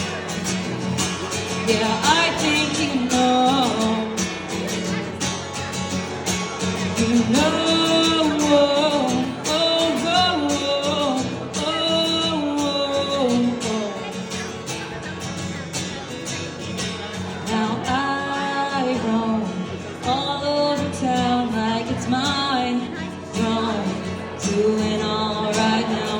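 A song performed live: a singer's voice in drawn-out phrases over guitar accompaniment.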